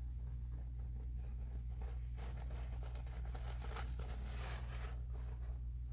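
Rustling and crinkling from materials being handled, strongest about two to five seconds in, over a steady low hum.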